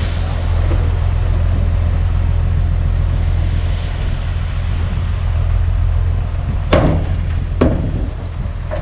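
Komatsu D51PX bulldozer's diesel engine running steadily under load, with two sharp knocks near the end, about a second apart.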